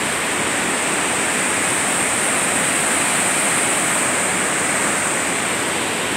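Steady rush of a waterfall on the Kootenai River, loud and unbroken.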